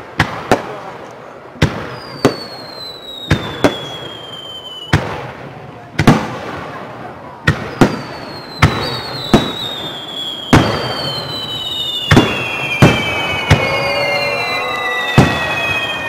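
Aerial firework shells bursting in quick succession, about twenty sharp bangs with echoing tails. From about two seconds in, several long whistles overlap the bangs, each falling slowly in pitch.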